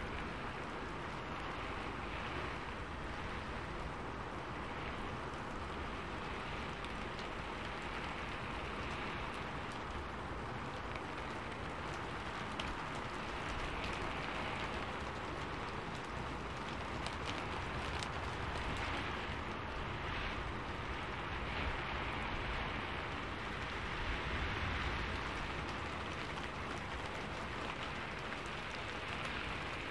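Steady rain falling, an even wash of noise with a few separate drop hits standing out.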